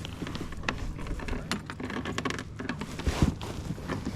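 Irregular clicks and knocks of fishing gear being handled in a plastic kayak while a fish is put on the stringer.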